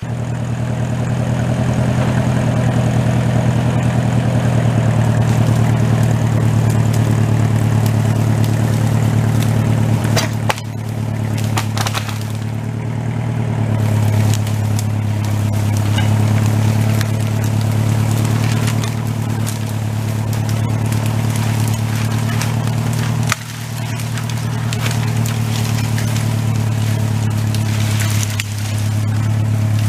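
Old STIHL chainsaw running at high revs as it cuts limbs off a felled elm, the engine dipping briefly about ten seconds in and again near twenty-three and twenty-eight seconds, with cracks of wood as the limbs come off.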